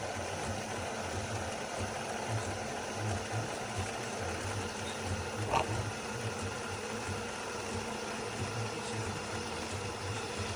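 De'Longhi Magnifica Start bean-to-cup coffee machine running with a steady, pulsing mechanical hum, with a short click about halfway through.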